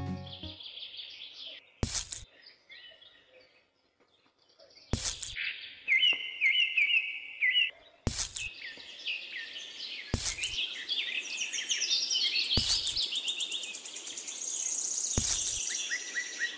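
Small birds chirping and trilling, busiest in the second half with a long high trill near the end. Six short sharp taps fall roughly every two and a half seconds.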